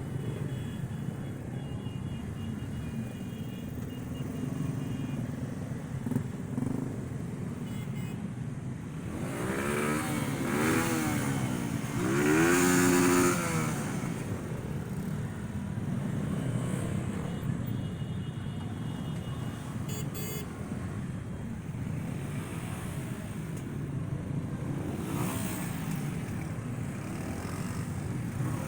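Passing parade vehicles' engines running steadily, with an engine revved up and back down twice, about ten and twelve seconds in; the second rev is the louder.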